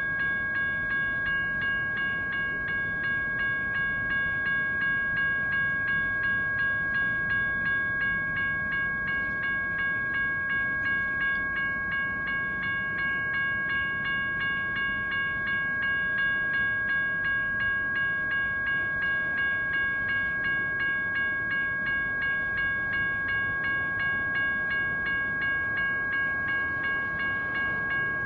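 General Signals Type 1 electronic crossing bells dinging steadily at about two strokes a second, over the rumble of a passing train.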